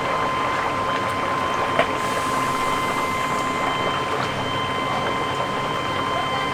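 Chicken deep-frying in hot oil: a steady crackling sizzle with small pops, a thin steady high tone underneath, and one sharp knock about two seconds in.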